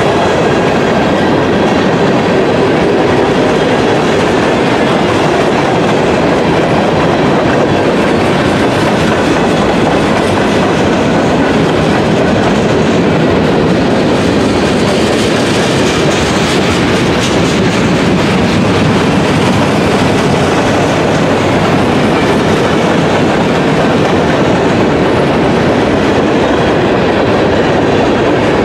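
A train passing on the rails close by: the loud, steady rolling noise of its wheels on the track, which keeps on without a break.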